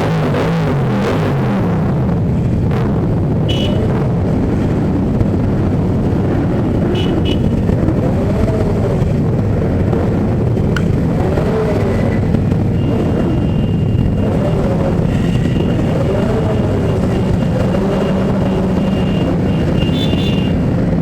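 Several motorcycle engines running and revving as the bikes ride past, a steady loud engine din with pitch rising and falling.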